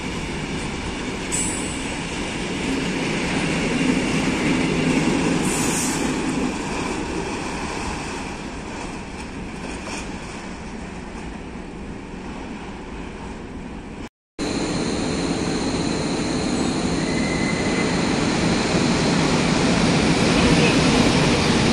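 A long freight train of open wagons rolling past on the station tracks, a steady rumble with brief high wheel squeals in the first few seconds. After a sudden cut, a PKP EU07 electric locomotive moves slowly through the covered station, and its running noise grows louder near the end.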